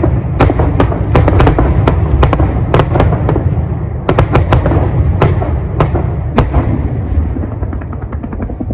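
Fireworks exploding in a dense barrage, many sharp bangs over a continuous rumble. The bangs thin out and the sound dies down over the last few seconds.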